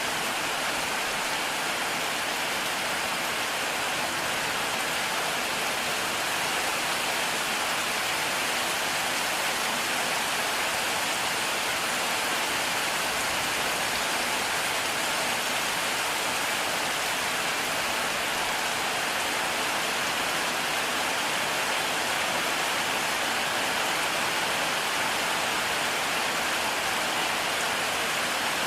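Heavy rain falling steadily, a dense even hiss of drops on surfaces, with no thunder clap in this stretch.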